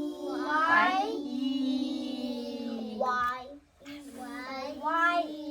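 A child singing in long, drawn-out held notes: one long phrase, a brief pause about three and a half seconds in, then a second held phrase.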